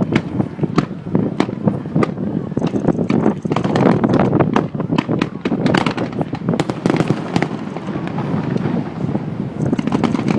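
Fireworks display: a continuous run of sharp bangs and crackling pops over a steady low rumble. The pops come thickest in a rapid cluster about six to seven seconds in.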